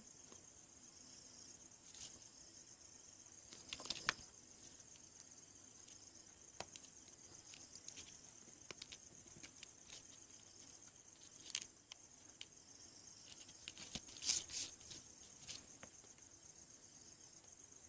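Faint steady high-pitched insect chirring, with scattered light clicks and taps; the loudest clicks come about four seconds in and again about fourteen seconds in.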